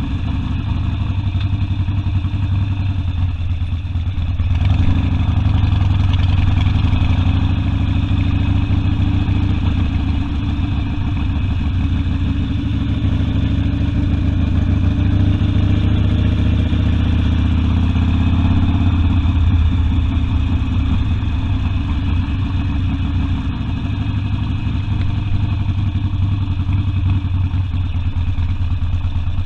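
Harley-Davidson Sportster V-twin engine running under way, heard from the rider's seat with a deep low rumble. The engine speeds up about five seconds in, holds there, then eases back around nineteen seconds in.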